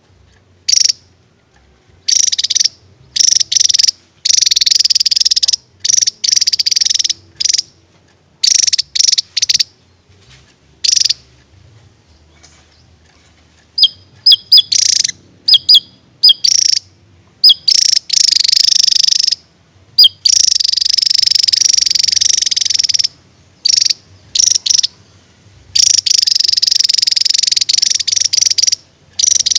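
Javan tesia singing its 'tembakan' burst song. It gives loud, high, rapid buzzy trills in bursts of under a second to about three seconds, broken by short silences. Around the middle it switches to a run of separate sharp chirps that slide down in pitch.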